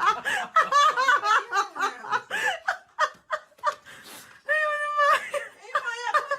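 High-pitched laughter in quick, rapid bursts, with one longer held, wavering note about two thirds of the way through.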